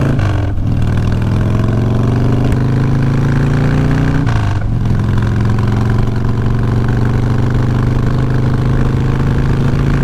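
Motorcycle engine pulling under acceleration, rising in pitch. About four seconds in it drops sharply at a gear change, then holds a steady, slowly rising pitch.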